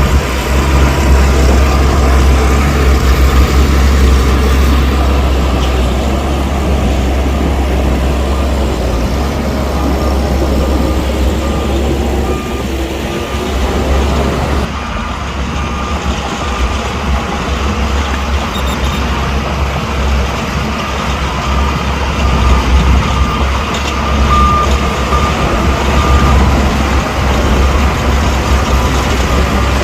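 Heavy diesel earthmoving machinery running under load with a deep, steady engine rumble. A reversing alarm beeps repeatedly, clearest in the second half.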